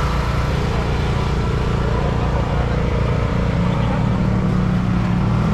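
A car engine running steadily, with a low rumble, amid background voices.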